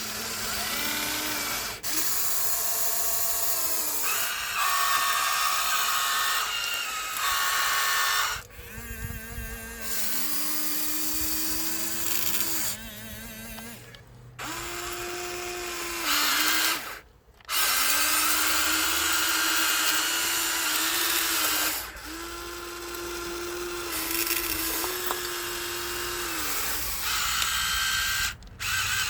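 Small electric motors and gearboxes of a Huina 1593 RC excavator whining as it works, starting and stopping every few seconds with the pitch shifting from one movement to the next.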